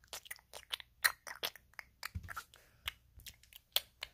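Crunchy chewing and munching noises made with a person's mouth, an irregular run of short clicks several times a second: eating sounds acted out for a toy puppy eating an ice cream cone.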